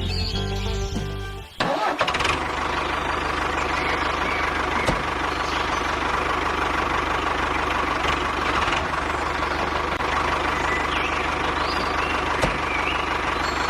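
Music cuts off about a second and a half in, then a vehicle engine starts and runs steadily at idle, with a few faint high chirps over it.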